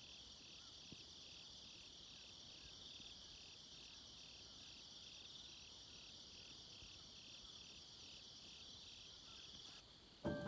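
Faint crickets trilling high and steady, with an even pulse about two or three times a second, cut off suddenly near the end.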